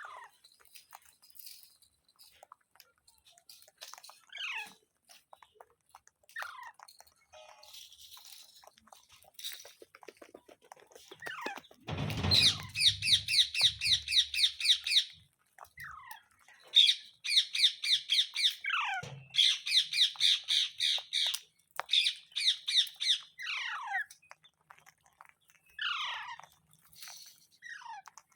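Parrot calling: short falling whistled calls, then, from about halfway through, four long trains of rapid, harsh repeated squawks in quick succession, with a few more falling calls near the end.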